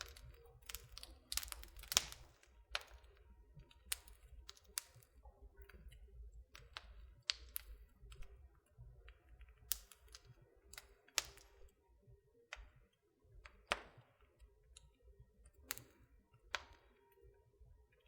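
Wood fire in a fireplace crackling, with irregular sharp pops and snaps a few times a second over a faint low rumble.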